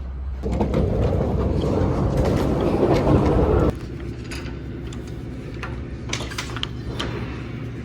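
Heavy vehicle rumble that cuts off abruptly a few seconds in, leaving a steady low engine hum with scattered clicks.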